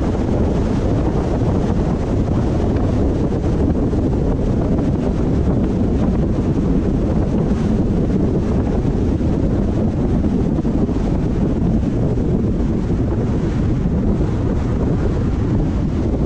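Steady road and wind noise of a moving car, a constant low rumble with wind buffeting the microphone.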